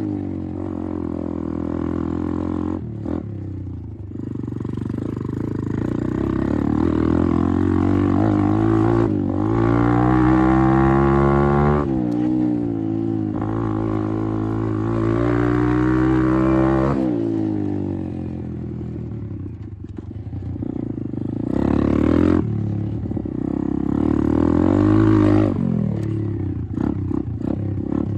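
Apollo RFZ 125 dirt bike's single-cylinder engine being ridden. Its note climbs under throttle and drops back again several times, with sharp drops at gear changes or when the throttle is closed.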